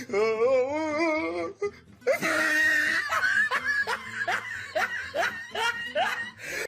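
Laughter: a drawn-out, wavering laugh, then a run of repeated laughing bursts, each falling in pitch, about two a second.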